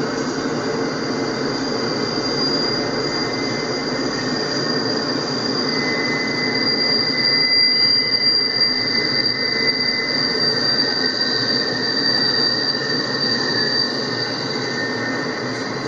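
Double-stack intermodal well cars rolling past on a curve, a steady rolling rumble with a high, steady wheel-flange squeal over it. A second, lower squeal tone joins about six seconds in.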